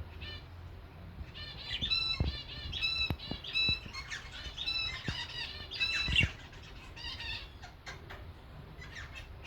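Caged birds calling: a quick run of short, repeated calls from about a second and a half in, thinning out near the end, with a couple of brief low knocks among them.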